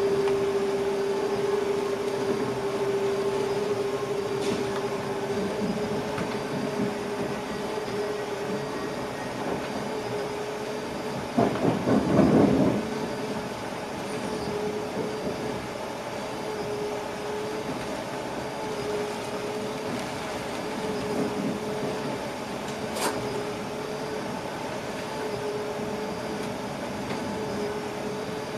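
Passenger train running, heard from inside the driver's cab: steady rolling noise with a constant hum. A louder rumble lasts about a second and a half midway through, and a single sharp click comes near the end.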